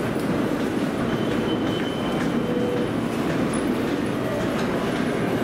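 Trains running side by side on parallel tracks, a steady rumble of wheels on rail with a few faint clicks.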